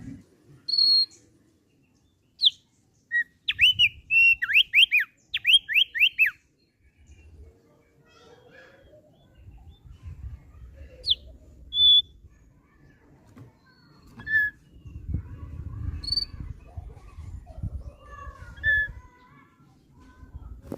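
Thick-billed heleia (opior paruh tebal) singing: a few single high whistled notes, then a quick run of about nine down-slurred whistles a few seconds in, followed by scattered single chirps.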